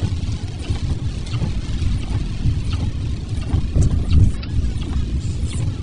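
Car driving on wet roads in the rain: a steady low rumble of engine and road with a hiss of tyres on wet pavement, heard from inside the car.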